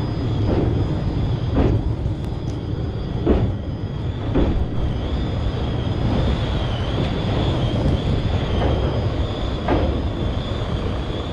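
Passenger train running over a rail bridge, heard from an open coach doorway: a steady low rumble of wheels on rails with a thin high whine above it and a few scattered knocks.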